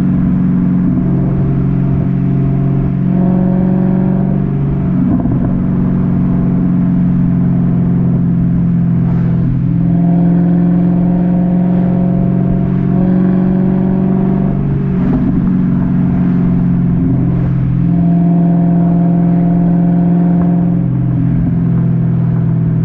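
2009 Dodge Challenger SRT-8's 6.1-litre Hemi V8 exhaust while driving: a steady drone whose pitch steps up and back down several times as the throttle is opened and eased off.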